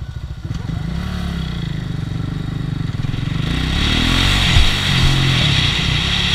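KTM Duke 690's single-cylinder engine idles, then pulls away about a second in and accelerates, rising in pitch. Wind noise on the helmet camera builds from about halfway through as speed picks up.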